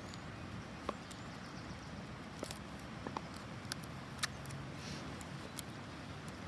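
Faint, scattered light clicks and rustles of hands handling a paper end cap and tape on a cardboard tube, with a brief soft hiss about five seconds in.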